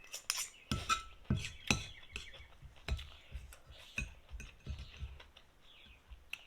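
Irregular clinks and knocks of eating utensils against a bowl and dishes, a dozen or so sharp strikes with the loudest in the first two seconds, while birds chirp faintly in the background.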